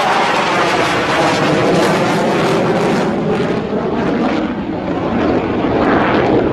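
Jet noise from a JF-17 Thunder's single RD-93 turbofan as the fighter flies a display pass: a loud, steady rush whose pitch falls a little in the first second or so.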